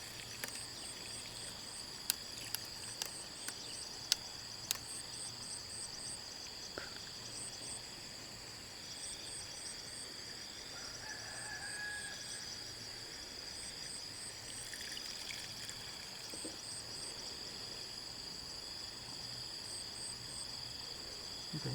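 Insects in a field: a steady high-pitched drone, with crickets chirping in short repeated pulse groups. A few light clicks sound in the first five seconds.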